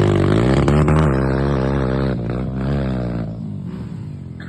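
Dirt bike engine revving, its pitch rising and falling repeatedly as the throttle is worked, growing quieter in the second half.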